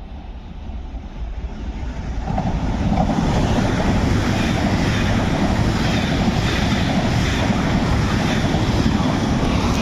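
A train passing through the station: a rushing noise of wheels and air that builds over the first three seconds, then holds steady and loud.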